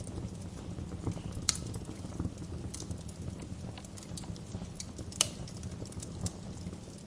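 Wood fire in a fireplace crackling: irregular sharp pops and snaps, the loudest about a second and a half in and about five seconds in, over a steady low rumble.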